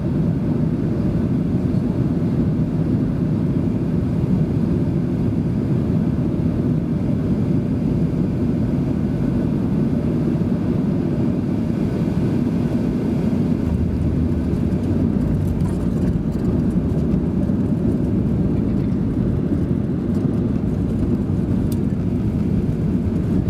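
Steady cabin rumble of a Boeing 737-700 coming in to land, heard from inside: airflow noise and CFM56 engine drone, even in level throughout.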